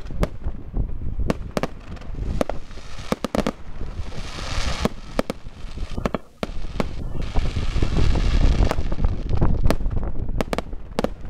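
Fireworks going off: a rapid run of sharp bangs from aerial shells, with a spell of hissing sparks in the middle and again a little later.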